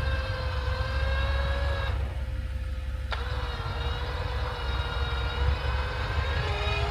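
Electric winch motor whining under load as it pulls a Jeep Wrangler out. It stops about two seconds in and starts again about a second later with a click, its pitch rising slightly near the end, over the low steady idle of the Jeep's engine.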